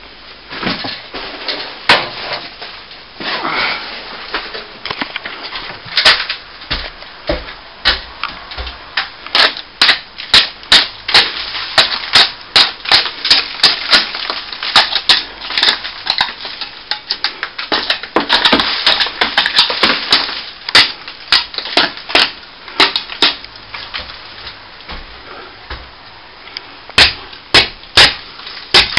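Utility knife blade raking out hairline cracks in plaster: a long run of sharp, irregular scratching and clicking strokes, coming in quick bursts, with crumbs of plaster breaking away.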